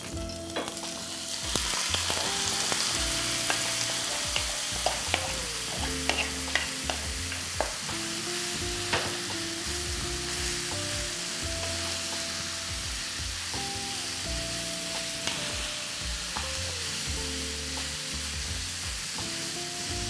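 Minced mutton (keema) sizzling as it hits hot sesame oil in a non-stick frying pan and fries, the sizzle starting about half a second in. A wooden spatula stirs it, with frequent clicks and taps against the pan.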